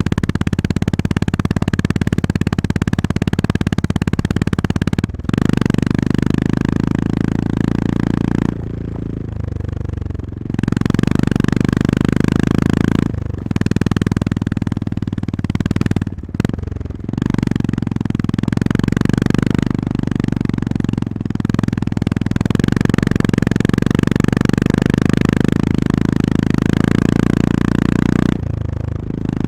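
Honda GB350S single-cylinder engine running under way, with wind and road hiss. It drops off briefly several times as the throttle is closed: about five seconds in, for a longer lull around nine to ten seconds, and again near thirteen and sixteen seconds and near the end.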